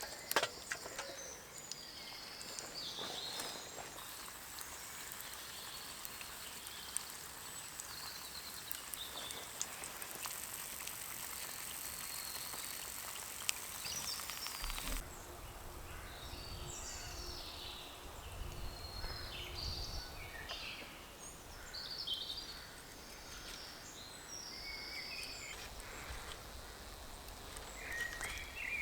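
Woodland ambience with wild birds calling in short, scattered chirps. A steady high hiss runs through the first half and cuts off suddenly about halfway.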